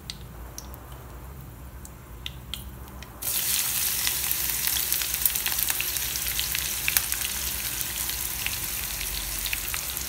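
Whole spices crackling faintly in hot oil in a nonstick frying pan; about three seconds in, sliced onions are tipped into the pan and the oil breaks into a loud, steady sizzle with crackles.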